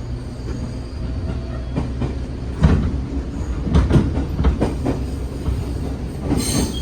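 JR 415 series 1500-subseries electric train running, heard from inside the carriage: a steady low rumble, with a cluster of knocks from the wheels over the rail joints a little before the middle.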